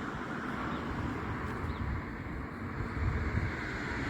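Steady outdoor background hum and hiss, with wind rumbling on the microphone in uneven gusts, strongest in the second half.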